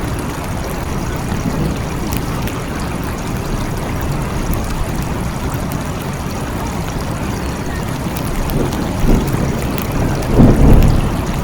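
Steady rain falling, with scattered drop ticks, and a low rumble of thunder swelling up near the end.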